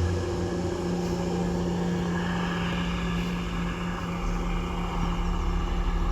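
A train running past, a steady hum over a low rumble.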